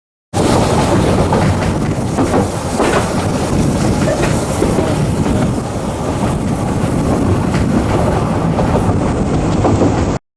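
Narrow-gauge railway train running with a steady rumble and clatter of wheels on the track. The sound cuts in suddenly just after the start and cuts off abruptly near the end.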